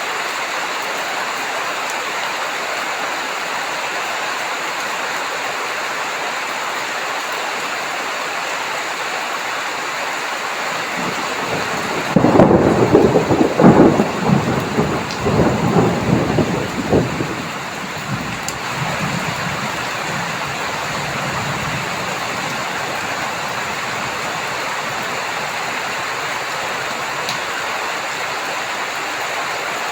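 Steady rain falling throughout, with a loud clap of thunder about twelve seconds in that rolls on for about five seconds and fades into a low rumble.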